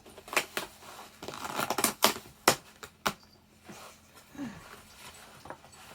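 A parcel's packaging being opened by hand: a series of sharp clicks and snaps, with a stretch of rustling and tearing about a second and a half in.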